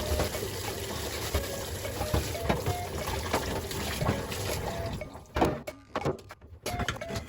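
Water running and pouring steadily, as from a tap filling a sink, thinning out about five seconds in. A few sharp knocks follow.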